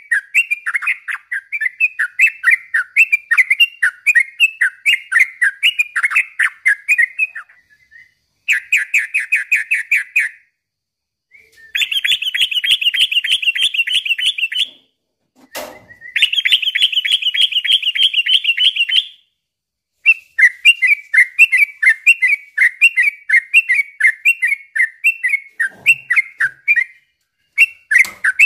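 Yellow-vented bulbul (trucukan) singing: rapid, bubbly chattering phrases, broken by long, very fast trills of repeated notes (the 'ropel' style), with a few short pauses. There is a single sharp click about fifteen seconds in.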